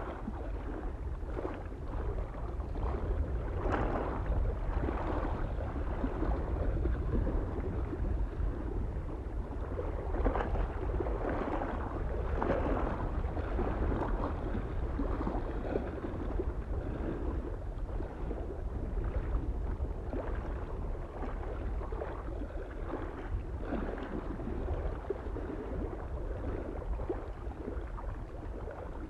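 Small waves lapping and splashing irregularly at a mountain lake's shore, over a soft, steady wind rumble.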